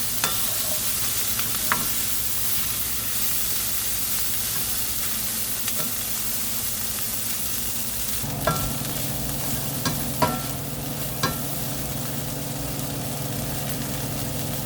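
Cicadas stir-frying in oil in a pan, sizzling steadily, with a utensil clinking against the pan a few times.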